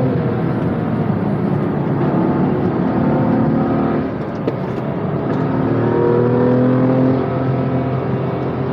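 BMW M2 Competition's twin-turbo straight-six engine running hard at speed, heard from inside the cabin with road noise. The engine note eases off briefly about four seconds in, then pulls up again with a rising pitch.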